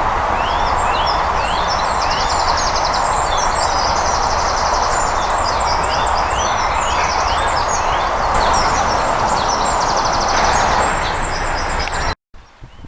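Small birds singing, several short chirps and rapid trills, over a loud steady rushing noise. Both cut off abruptly near the end.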